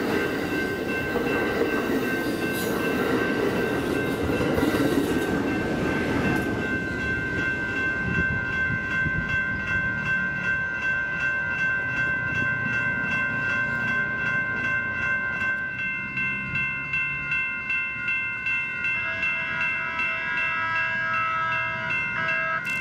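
A train running past on the rails, loud for the first six seconds and then fading. Several steady high ringing tones sound throughout and pulse about twice a second near the end.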